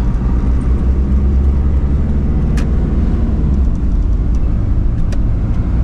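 Steady low rumble of a vehicle's engine and road noise heard from inside the cab while driving, with two sharp clicks about two and a half seconds apart.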